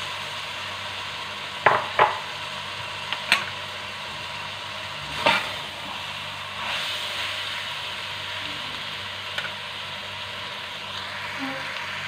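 Raw chicken pieces sizzling in a metal pot of fried onions, tomatoes and spices as they are stirred in, with a spoon knocking against the pot a few times in the first half.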